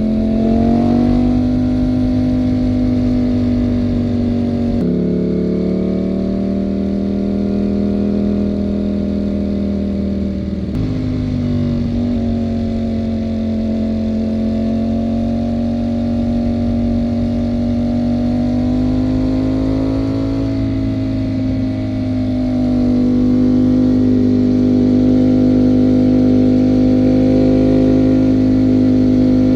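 Ducati Panigale V4 motorcycle's V4 engine running under way at a steady cruise. Its pitch drops suddenly about five seconds in and rises suddenly about eleven seconds in, then holds and swells slightly near the end.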